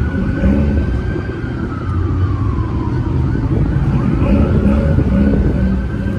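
Police siren wailing slowly, its pitch falling and rising again about halfway through, over a steady low rumble of engines.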